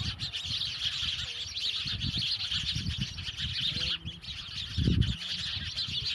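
House sparrows chirping continuously, many overlapping chirps from a flock. Low rumbling thumps sound underneath, the loudest about five seconds in.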